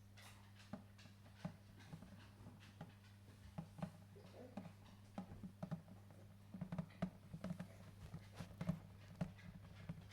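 Faint, irregular small clicks and taps, growing busier and louder after about halfway, over a low steady hum.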